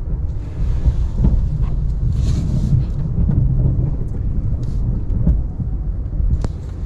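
Ram 1500 Classic pickup running as it pushes snow with its plow, a steady low rumble with a few brief knocks.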